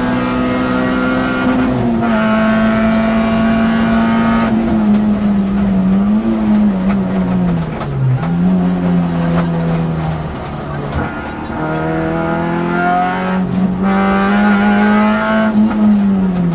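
Peugeot rally car's engine heard from inside the cockpit, pulling hard at high revs. Its pitch sags and climbs back several times as the driver lifts, brakes and changes gear, with sharp brief drops about eight seconds in and near the end.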